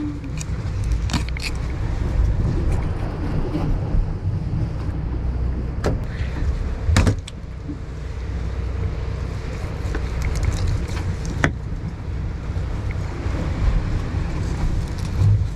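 Steady low rumble aboard an offshore fishing party boat, with a few sharp knocks; the loudest knock comes about seven seconds in.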